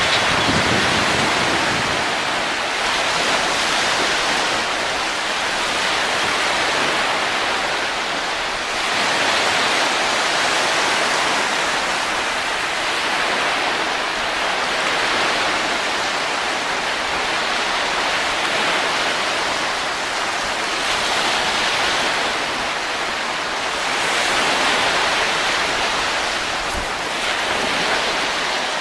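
Steady rushing wind with no music, swelling and easing in slow gusts every few seconds.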